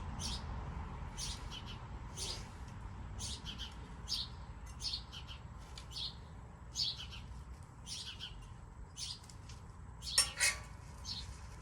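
Small birds chirping in short, high, repeated calls every half-second or so over a low steady rumble. Just after ten seconds in there are two louder sharp sounds.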